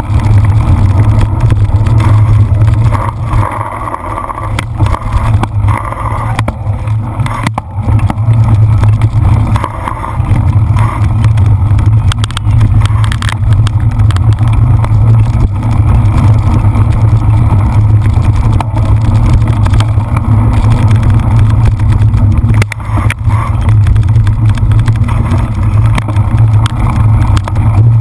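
Loud, steady rumble of wind buffeting a camera microphone on a cyclocross bike ridden at race pace, with rattles and knocks from the bike over rough ground.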